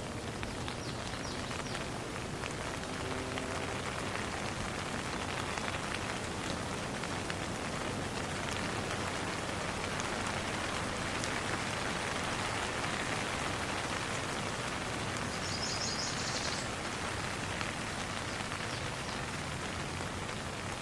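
Steady rain falling on a pond, a constant hiss with many separate drops pattering. About three-quarters of the way through, a brief quick run of high chirps sounds over it.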